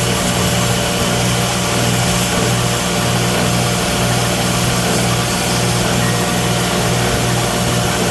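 Electric grinder running steadily: a loud, even hum.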